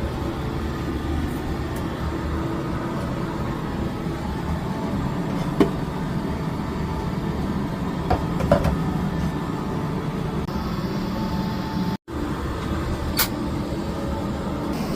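Steady cabin noise inside a Cathay Pacific Boeing 777-300 airliner, a low rumble of engines and air conditioning, with a few light clicks and knocks. The sound breaks off for an instant about twelve seconds in.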